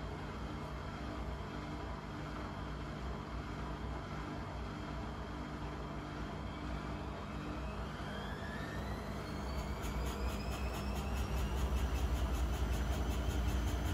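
Blomberg Granat 3200 washing machine running with a steady hum and drum rumble, then its drum motor speeding up into a spin: about halfway through, a whine rises steadily in pitch and the sound grows louder.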